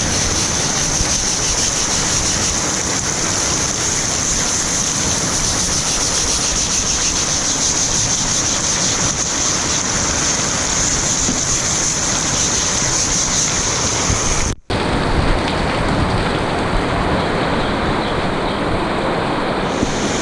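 Heavy rain falling steadily, with a steady high-pitched whine over it that stops at a brief dropout about two-thirds of the way through.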